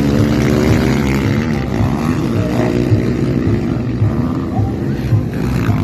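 Honda CRF150 dirt bike's four-stroke single-cylinder engine running while riding, its revs rising and falling.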